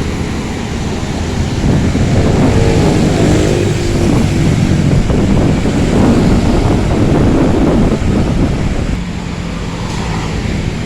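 A truck engine running. It grows louder about two seconds in and eases back near the end.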